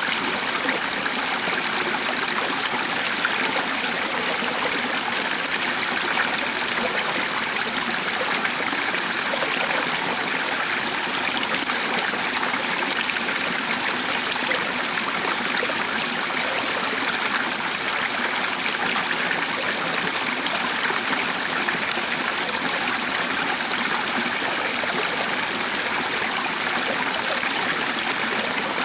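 Running water, like a stream, flowing with a steady, even rush that does not change.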